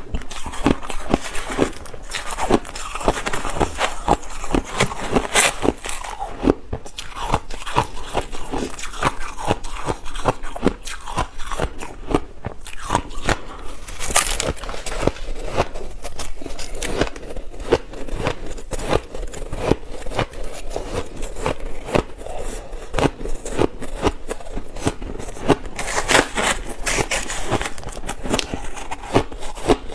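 Ice being bitten and chewed: a dense, irregular run of crisp crunches, several a second.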